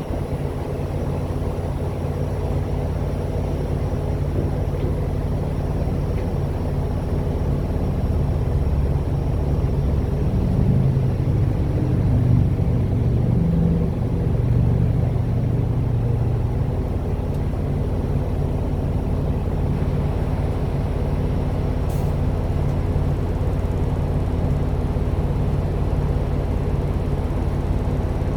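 Semi truck's engine and road noise: a steady low drone while driving, swelling slightly about halfway through.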